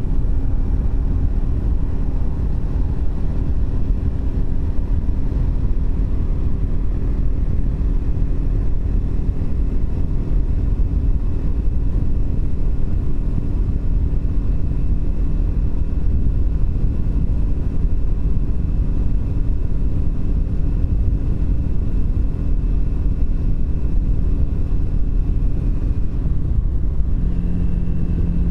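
Triumph Speed 400's single-cylinder engine running at a steady cruise, under a heavy rush of wind over the microphone. About 27 seconds in, the engine note changes to a lower, different pitch.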